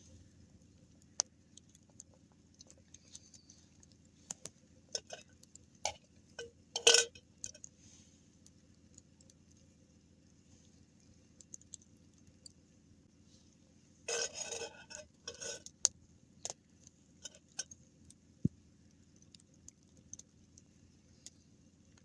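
Scattered clicks and clinks of small hard objects being handled, with a single loud knock about 7 seconds in and a burst of rattling clatter around 14 to 16 seconds, like camp utensils or gear knocking together.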